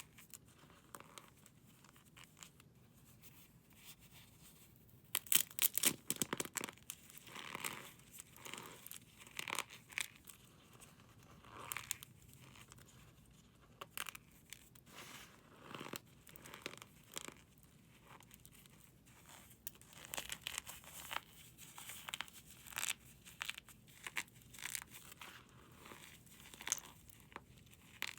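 Brittle, crumbly material being crunched and crumbled in bursts of crisp crackling. It is faint for the first few seconds and busier after about five seconds in.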